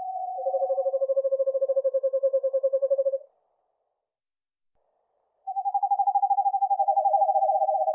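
Eastern screech owl giving its long, even trill, a rapid run of soft hoots on one pitch. Two trills at slightly different pitches overlap at the start, and the lower one carries on until about three seconds in. After about two seconds of silence a new trill begins and steps a little lower in pitch.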